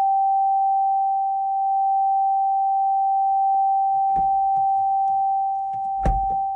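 A single steady high-pitched tone, very loud, sounding in the cabin of a Haval H6 HEV. It is an unexplained fault noise with no warning shown on the dash, and it is not the radio or the air conditioning. There is a thump about six seconds in.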